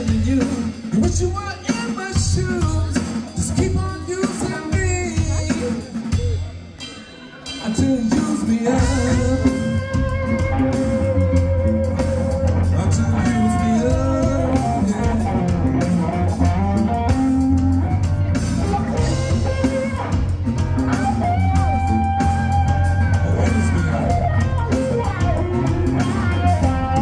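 A band plays a song with a singer and guitar over a steady bass. It drops away briefly about seven seconds in, then the full band and sustained singing come back.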